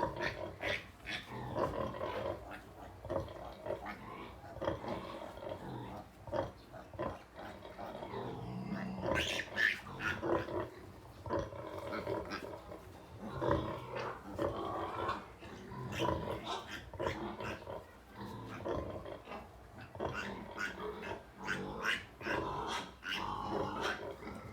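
A sow and her two-day-old piglets grunting and squealing while she nurses them: short calls follow one another throughout, mixed with many small clicks.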